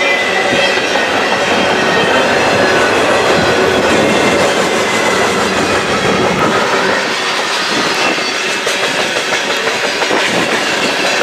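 Freight cars of a long freight train rolling past close by, a steady loud rush of wheel and rail noise with clattering.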